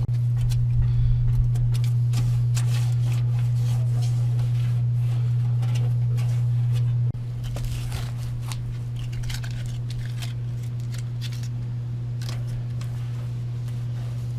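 Aluminum foil tape being handled, with a scattered run of sharp crinkles and crackles as it is cut, peeled and pressed down. Under it runs a steady low hum, the loudest sound here, which drops in level suddenly about seven seconds in.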